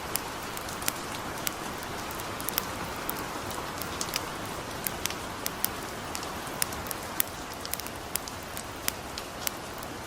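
Steady hiss of light rain with a campfire crackling: sharp, irregular pops about once or twice a second.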